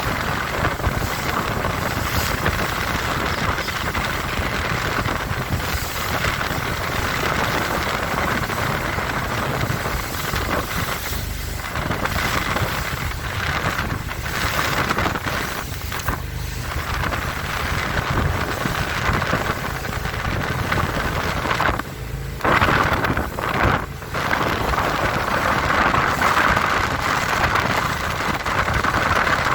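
Four Winns Liberator powerboat running hard through rough chop, with engine and water noise under heavy wind buffeting on the microphone. The level drops briefly a few times, most sharply twice near the end.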